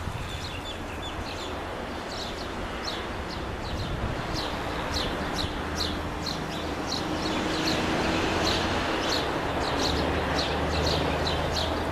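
A bird calling with short, high, descending chirps, repeated two or three times a second and growing louder and busier after the first few seconds, over a steady low rumble.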